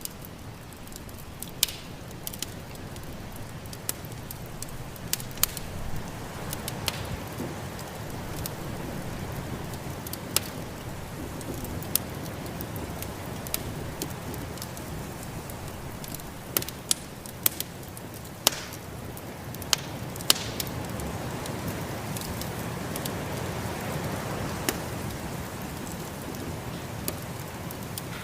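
Wood fire crackling, with sharp irregular pops and snaps, over a steady rushing noise of snowstorm wind that swells slightly midway and again near the end.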